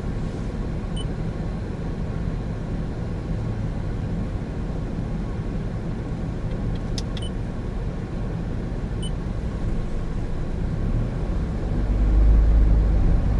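Steady road and engine rumble inside the cabin of a 2017 Honda N-BOX Custom, a 660 cc turbo kei car, while driving; the rumble gets louder near the end.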